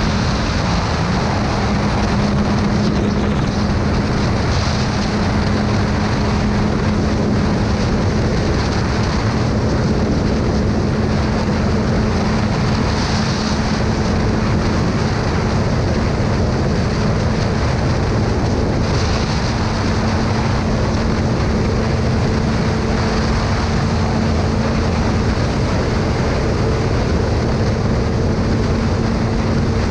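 Motorcycle riding at a steady speed: a constant engine hum under a loud, even rush of wind noise.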